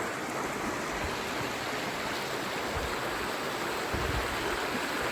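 Stream water rushing steadily, with a few faint low thumps.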